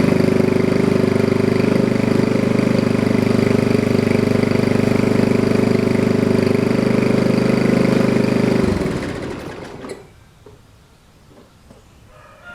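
2010 Briggs & Stratton 3.5 hp single-cylinder four-stroke engine running steadily. It is shut off about nine seconds in and winds down to a stop within about a second.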